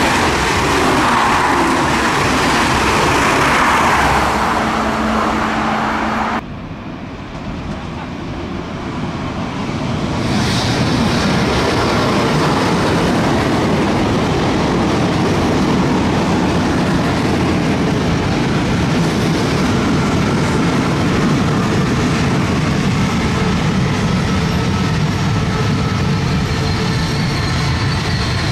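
A Coradia Liner V160 (Regiolis) bi-mode multiple unit passing at speed, a loud rushing train noise. About six and a half seconds in it cuts suddenly to a lower, steadier train rumble, which builds over a couple of seconds and then holds.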